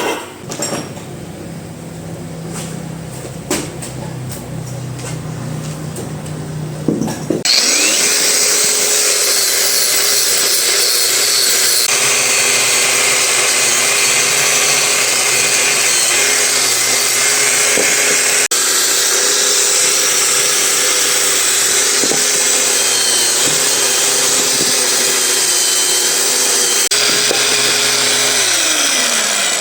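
A handheld electric power tool switched on about seven seconds in, running at a steady pitch over a loud, noisy rasp of the tool working the part. Near the end it winds down as it is switched off. Before it starts, there is a quieter low hum with a few scattered clicks.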